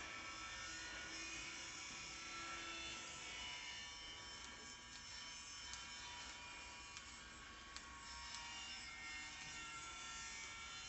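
Faint steady buzzing hum in the room, with a few faint clicks.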